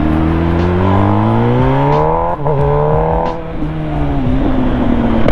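MV Agusta Brutale 1000 RR's inline-four engine revving up hard under acceleration. The revs break briefly about two and a half seconds in for a gear change, climb again, then fall away as the throttle is closed.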